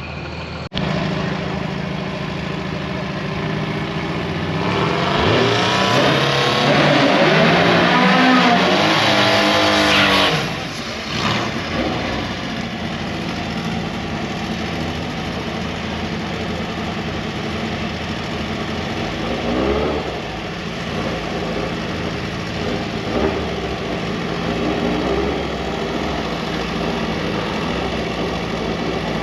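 Car engines running, with one engine revving up and accelerating hard for about five seconds, about five seconds in, then dropping back to a steady run.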